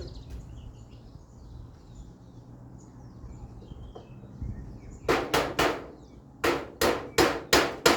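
Hammer driving nails into a beehive's galvanized iron roof: three quick blows about five seconds in, a short pause, then a steady run of blows about three a second.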